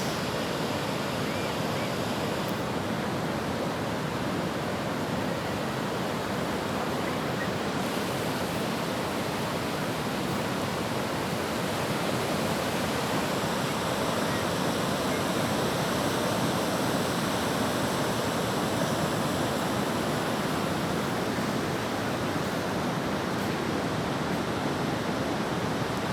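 Ocean surf washing onto the beach: a steady rush of noise that swells slightly midway.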